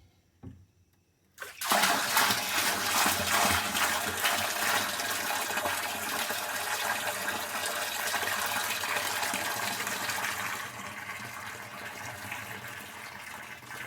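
Bucket of dark, used washing-soda electrolyte being poured into an electrolysis tank. After a few light knocks, a steady gushing pour starts about a second and a half in and eases to a quieter splashing a few seconds before the end.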